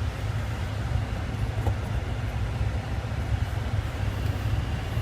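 Steady low rumble with an even hiss over it: background vehicle noise.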